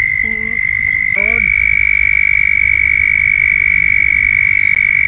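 Male toads trilling in a breeding pond: a loud, long, steady high-pitched trill, with a second trill at a slightly higher pitch taking over about a second in. It is the males' mating call of the breeding season.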